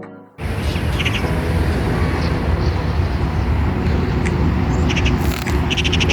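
Park ambience: birds chirping in short, repeated clusters over a steady low rumble, which cuts in abruptly just after the start.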